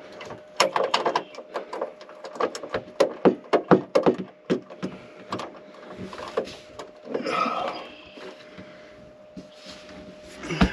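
Quick series of sharp clicks and knocks, then a scraping rub, as a bolt is worked into its hole on a battery mount, with one more knock near the end. A faint steady hum runs underneath.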